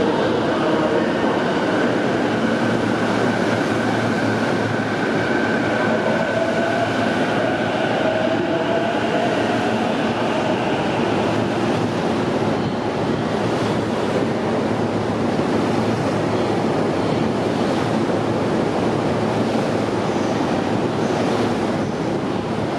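Sagami Railway 12000 series electric train running past the station platform. Its wheels clatter steadily on the rails, and about a third of the way through, a motor whine rises in pitch.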